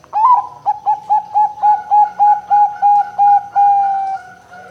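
Zebra dove (perkutut) cooing: a quick run of about a dozen short, clipped notes ending in one longer drawn-out note that fades.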